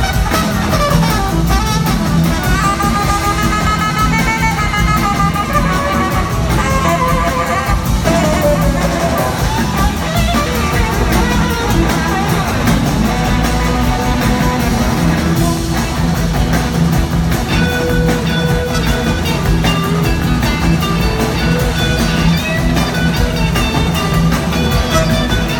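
Live rock-soul band playing an instrumental passage, an electric guitar leading with bending, gliding notes over bass and drums.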